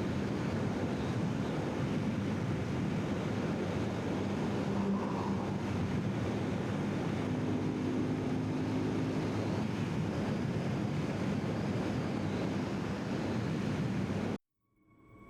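Steady wind rush on the microphone over a motorcycle's engine at highway riding speed. It cuts off abruptly near the end.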